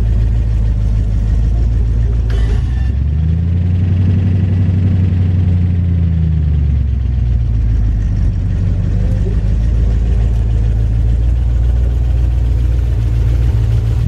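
1973 Chevy K20 pickup's engine running, revving up about three seconds in and settling back to idle a few seconds later.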